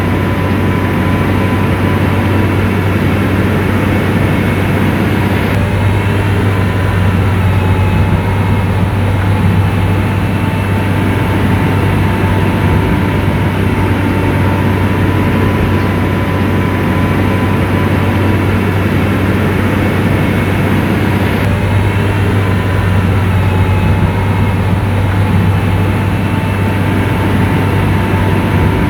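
Motor grader's diesel engine running steadily with a deep constant hum and a faint steady whine.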